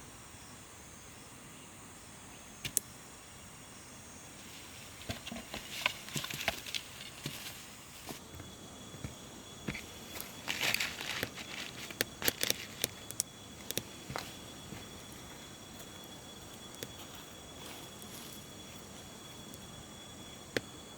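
Crickets and other insects chirring steadily in the background. About four seconds in, a stretch of irregular rustling, snapping and crackling begins, like steps or handling in dry leaves and twigs; it dies away by around fifteen seconds. A single sharp click comes near the end.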